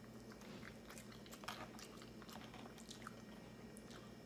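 Faint close-up chewing of a mouthful of vegetable-topped pizza: soft, scattered mouth clicks and smacks over a low steady hum.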